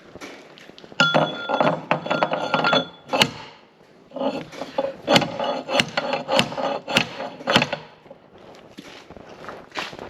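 Hammer blows on steel, driving a worn bearing out of a mower, each strike ringing. They come as two quick runs of strikes, one from about a second in and another from about four seconds in, with lighter taps near the end.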